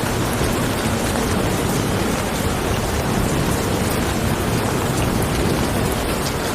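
Steady heavy rain falling, a dense even hiss with a deep rumble underneath and scattered individual drop ticks.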